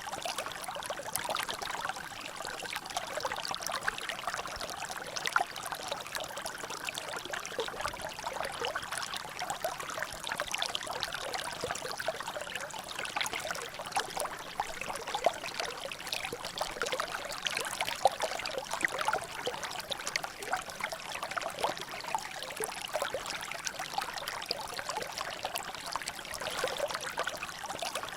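Water trickling and dripping in a natural drainage channel: a steady, dense patter of small splashes, with a couple of louder drops.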